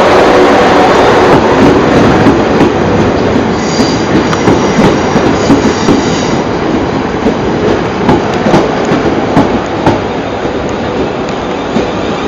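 Passenger train running past close by, its wheels clicking over rail joints, with a brief high wheel squeal a few seconds in. The rumble is loudest at first and eases toward the end.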